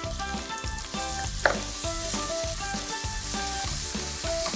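Grated carrot and cashews sizzling in hot oil in a kadai while being stirred with a wooden spatula, the first sauté of the carrot. There is a single sharp knock about one and a half seconds in, and soft background music plays underneath.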